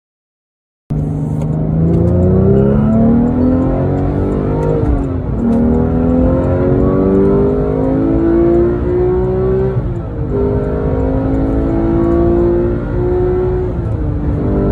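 Porsche 911's flat-six engine, heard from inside the cabin, accelerating hard through the gears. It starts about a second in, and its note climbs steadily, drops at each upshift about five and ten seconds in and once more near the end, then climbs again.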